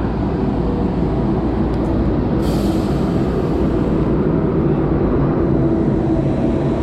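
Loco-hauled Trenitalia Intercity train running with a steady rumble and a low hum. About two and a half seconds in, a short hiss of air comes and goes.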